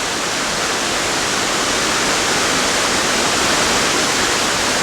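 Waterfall rushing steadily, the even hiss of water falling and splashing into a pool below.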